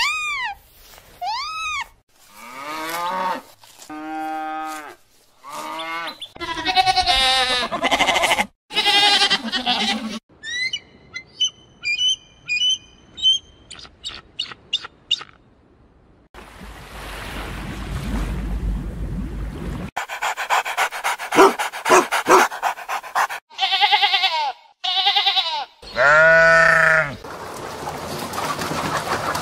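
A run of different animal calls, one after another: high arching squeals, then pitched bleat-like calls, then a bald eagle's high piping chatter of short repeated notes, followed by a low noisy stretch, clicks and further calls.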